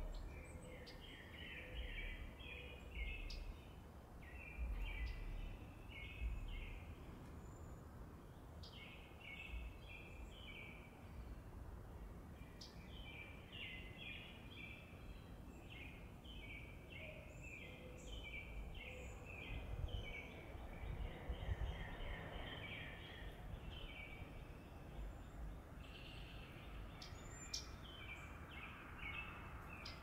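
Wild birds chirping: quick runs of short, high chirps come in bursts throughout, over a faint low rumble of outdoor noise.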